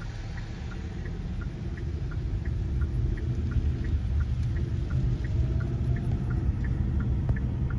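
Car cabin road rumble as the car drives on, growing gradually louder, with faint light ticks a few times a second.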